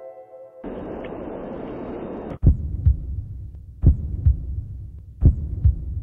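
A short burst of steady rushing noise that cuts off suddenly, followed by a heartbeat sound effect: double lub-dub thumps about every second and a half, starting about two and a half seconds in.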